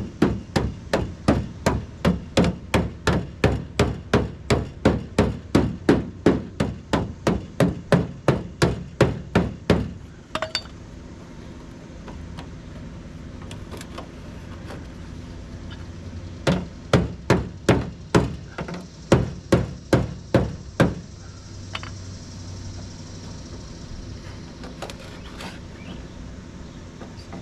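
A hammer beating on the sheet-steel fender panel of a 1976 MGB, about three even blows a second for some ten seconds. After a pause comes a second, shorter run of blows, then a few light taps. The panel is being shaped and keeps springing back.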